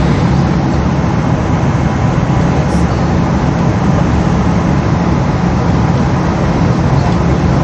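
Steady cabin roar of a Boeing 777 airliner, its engine hum and airflow heard inside the passenger cabin, with a low drone and a constant hiss.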